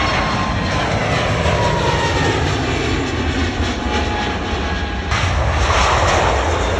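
Jet airliner engines, a steady loud rush with a whine that slowly falls in pitch. The sound changes abruptly about five seconds in.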